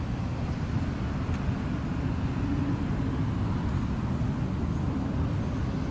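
Steady low outdoor rumble without distinct events, the kind left by wind on the microphone or distant road traffic.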